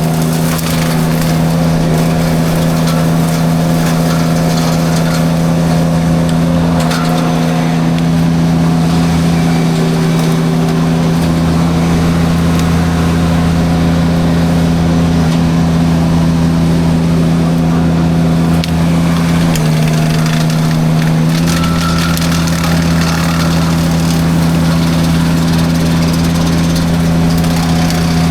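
Derette V1000 mini skid steer's engine running steadily under load while its drum forestry mulcher chews through brush, with constant crackling and splintering of wood. The engine pitch drops briefly about two-thirds of the way through, then comes back up.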